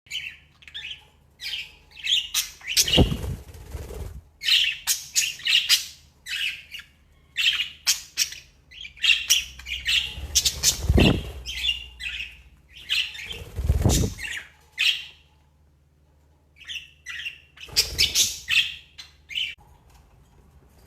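Budgies chirping in quick runs of short calls, with four louder noisy rushes mixed in.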